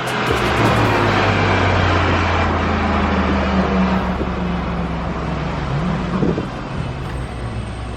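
Car engine and exhaust running with a steady low drone, with a short rise in pitch about six seconds in.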